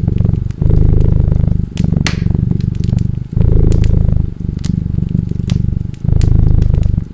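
A cat purring, the loudest sound, in repeated breath cycles of about a second each, with short breaks between them. Over it a fireplace fire crackles with scattered sharp pops and a brief hiss about two seconds in.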